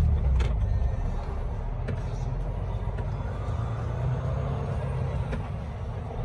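Truck engine heard from inside the cab, running with a steady low rumble. Its louder, deeper drone drops off right at the start, as if the driver eased off the throttle. A few faint clicks come through.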